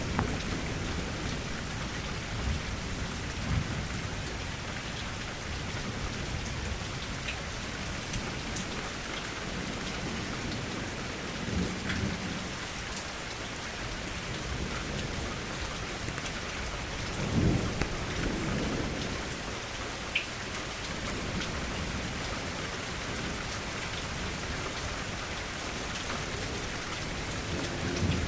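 Steady rain falling, with rolls of low thunder rumbling through it: a short one about twelve seconds in, the loudest about two-thirds of the way through, and another at the very end.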